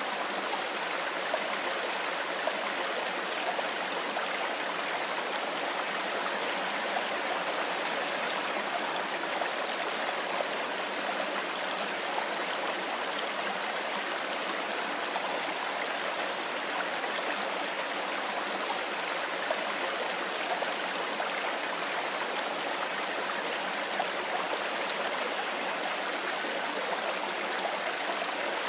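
A mountain river flowing over stones: a steady, even rush of water with a light burbling flicker through it.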